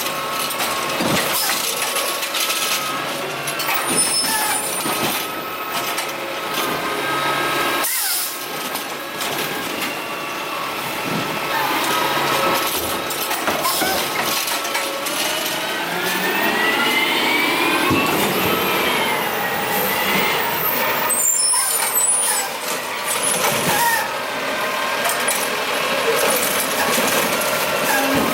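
Curbtender automated side-loading garbage truck at work: the engine and hydraulics run with a steady whine that rises in pitch as the engine revs to cycle the arm, with hiss from the air brakes.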